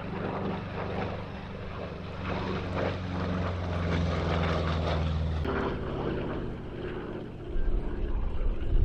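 A Merlin-engined piston warbird flying past, its propeller engine drone steady and then dropping in pitch about five and a half seconds in as it goes by. A gusty low rumble rises near the end.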